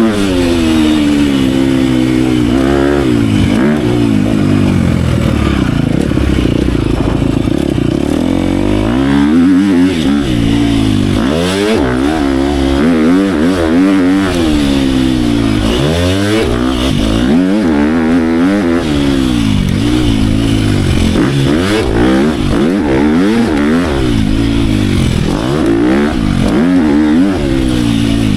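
Dirt bike engine being ridden hard, revving up and dropping back again and again, its pitch rising and falling every second or two as the throttle is worked and the gears change.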